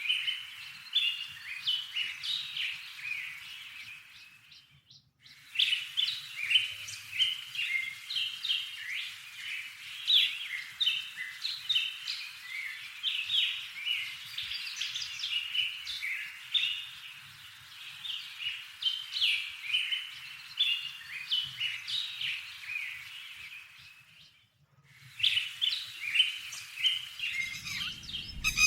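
Small songbirds chirping and singing in a busy, rapid run of short high notes, broken off twice by brief silences.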